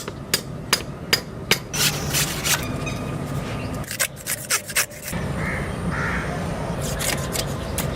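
Hand tools working bamboo: a run of sharp, evenly spaced strikes about two or three a second, a few more strikes a little later, then a steadier rough rasping noise.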